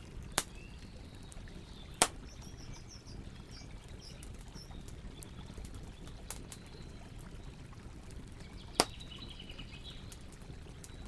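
Wood campfire crackling, with four sharp loud pops among many small ticks, over a steady low rush of river water. Small birds chirp twice.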